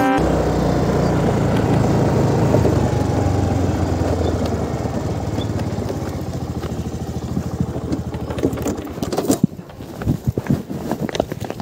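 Small motor scooter engine running as the scooter rides along, its sound fading slowly. Near the end it drops away, leaving a few scattered clicks and knocks.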